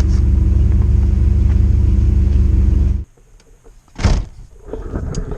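Motorhome engine idling with a steady low hum, shut off abruptly about three seconds in; a single loud thump follows about a second later.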